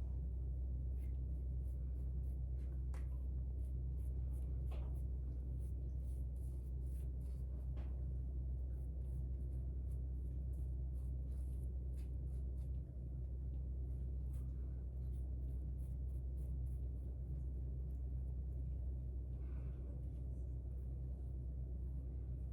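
A steady low hum, with faint light scratches and ticks of a paintbrush dabbing and spreading colour onto a deer antler.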